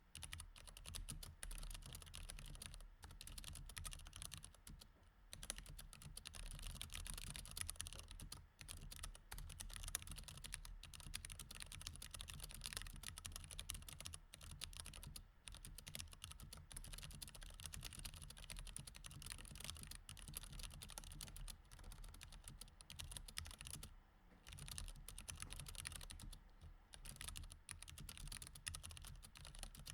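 Mechanical keyboard with Cherry MX Red switches, typed on quietly and continuously in a fast run of key clicks with a few brief pauses.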